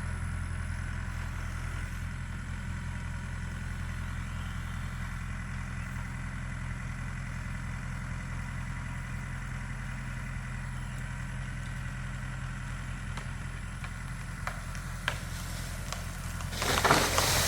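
Tractor engine running steadily as it pushes against a dead pine tree. Near the end come a couple of sharp cracks and then a louder noisy crash as the tree gives way.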